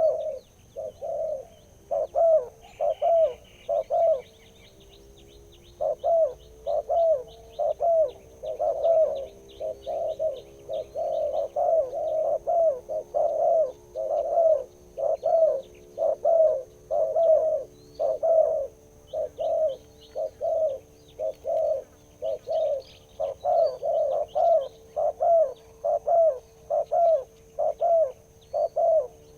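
Spotted dove cooing in long runs of deep, repeated coos, several a second, pausing briefly about four seconds in before starting again. Faint high chirps of small birds sound underneath.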